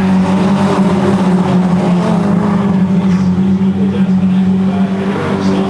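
Racing car engine running hard at near-constant high revs, one strong steady note with a slight rise in pitch about two seconds in.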